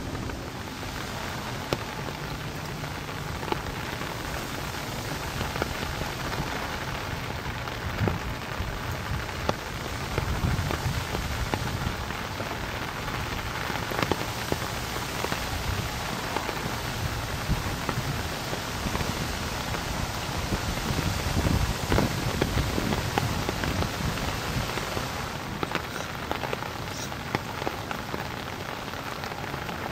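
Steady rain falling, a constant patter of scattered drops, with a low rumble underneath that swells now and then.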